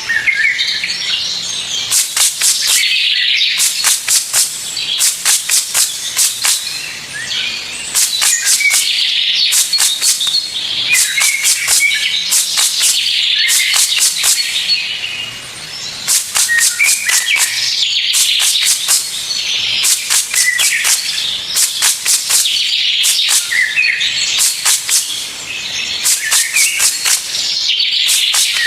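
Birds chirping and trilling, with trains of rapid high notes repeating every second or two.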